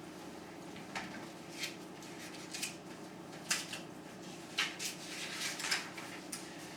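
Light handling noises: several brief rustles and small clicks spread through the pause, over a faint steady hum.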